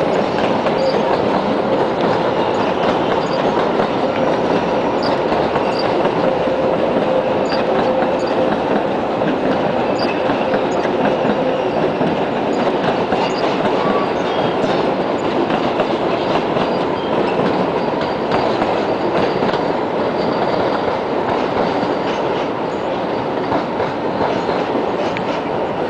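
Several electric passenger trains, double-deck multiple units and a red electric locomotive hauling coaches, rolling over points and crossings: a steady rumble of wheels on rail with clickety-clack over the joints. Brief high wheel squeals sound now and then.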